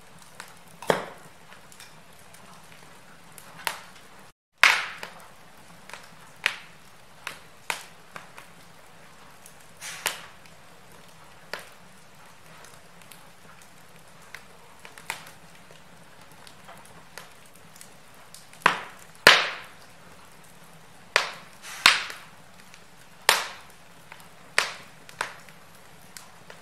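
Wood fire crackling in a fireplace: irregular sharp pops and snaps, a few louder than the rest, over a soft steady hiss. The sound cuts out for an instant about four seconds in.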